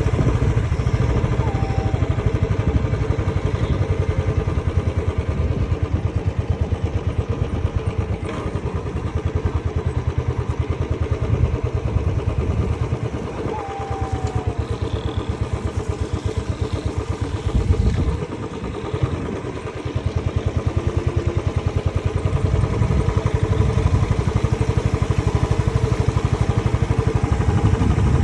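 A vehicle engine running steadily, its firing pulses evenly and closely spaced. It eases off briefly about halfway through and again a few seconds later, then picks back up.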